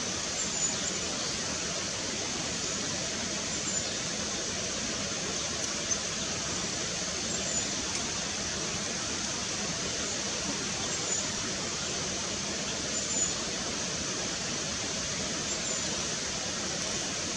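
A small bird giving short, very high call notes, one about every three seconds, over a steady rushing noise.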